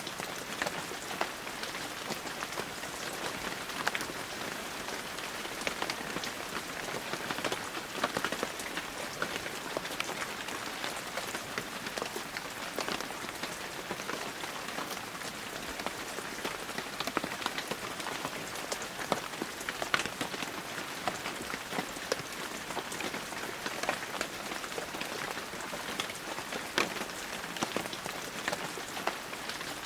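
Heavy rain falling steadily, a dense even hiss with many sharp ticks of single drops hitting surfaces close by.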